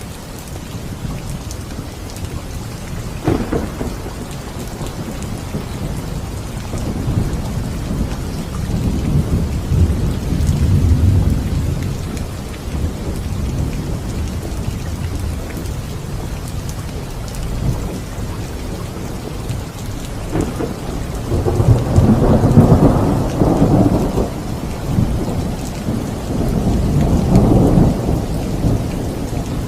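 Steady rain falling with rolling thunder: a short sharp crack a few seconds in, a low rumble swelling and fading near the middle, then a louder peal about two-thirds of the way through and another rumble near the end.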